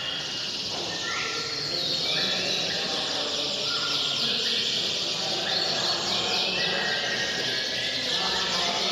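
Domestic canaries singing, rapid trills and held whistles running on and overlapping.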